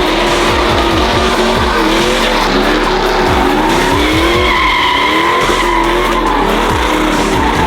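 Truck engine revving hard through a burnout, its pitch rising and falling again and again, over the steady noise of rear tires spinning on the pavement.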